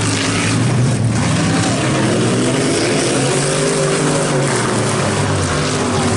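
Several racing trucks' engines running hard together in a truck feature race. Their pitches rise and fall against each other as they go around the track.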